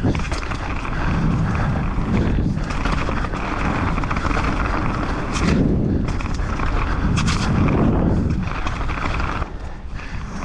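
Wind rushing over the microphone and mountain bike tyres rumbling over a dirt downhill trail, with a few sharp knocks and rattles, two of them in the middle.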